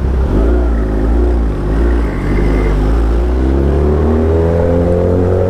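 Motorcycle engine running under the rider, its pitch wavering at first and then rising steadily from about halfway through as the bike accelerates.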